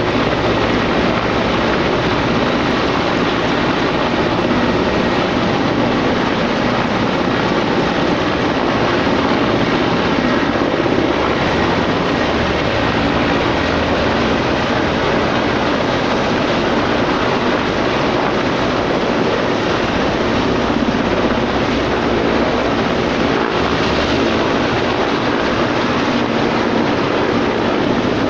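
A helicopter's rotor and engine running loud and steady.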